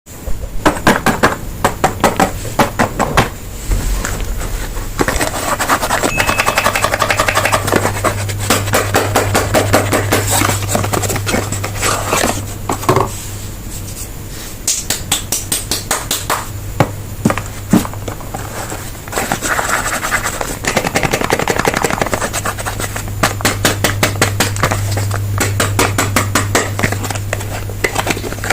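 Soap bars being unwrapped: packaging crinkling and rustling with many sharp clicks and taps, over a steady low hum for much of the time.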